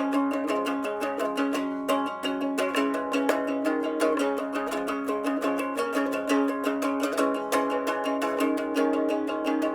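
A Donner three-string guitar played as a boogie: quick, even picked notes over a steady droning low note.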